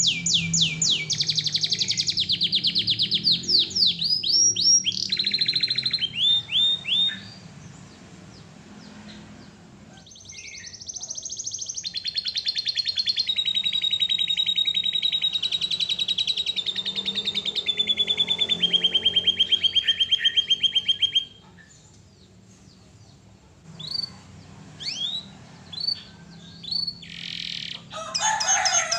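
Canary singing: long, fast, high-pitched trills and rolls, broken by two quieter pauses with only single short chirps, and a brief harsher burst near the end.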